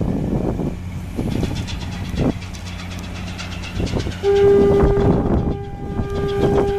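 Ship's horn sounding one long, steady, loud blast that starts about four seconds in, with a brief break partway through, over a low steady hum.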